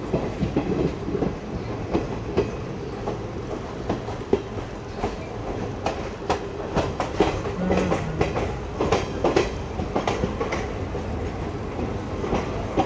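Passenger train running on the track: a continuous rumble of the coach with repeated clicks of the wheels over rail joints.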